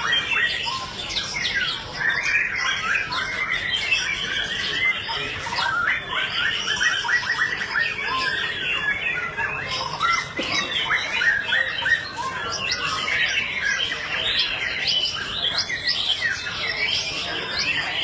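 A chorus of many caged songbirds singing and chirping at once, a dense, unbroken mass of overlapping short whistles and chirps.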